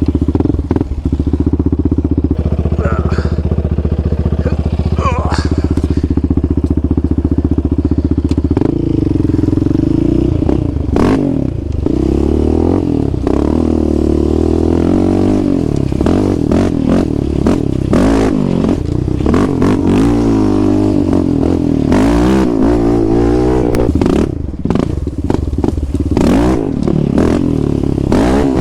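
Quad (ATV) engine running close by, held steady for the first several seconds and then revving up and down again and again as it rides the trail, with several sharp knocks over it.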